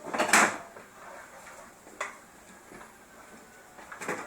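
Items on refrigerator shelves being handled and bumped by a small child: a loud clatter just after the start, a single click about two seconds in, and a couple of quick knocks near the end.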